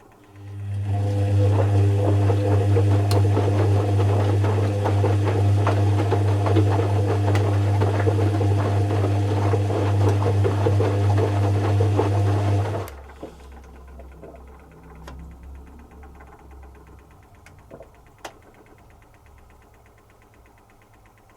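Zanussi FC1000 compact washing machine's motor turning the drum with a steady hum and rattle for about twelve seconds, then cutting out sharply. The drum then coasts and rests with a faint rumble and a few clicks, the pause between wash tumbles.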